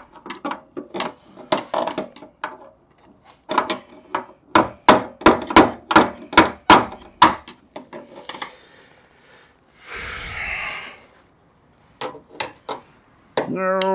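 Hammer blows on a Jeep XJ door hinge pin: scattered knocks, then a quick run of about ten strikes, roughly three a second. A brief rasping noise follows about ten seconds in.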